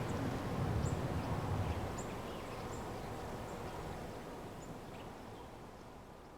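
Outdoor ambience: a steady rushing haze with scattered short, high bird chirps, fading out toward the end.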